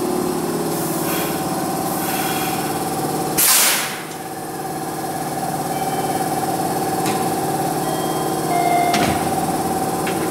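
Hanshin 7861-series train coming to a stop at a platform, its machinery humming steadily under the floor. About three and a half seconds in comes a short loud burst of air hiss, and near the end a shorter hiss as the single-leaf door slides open.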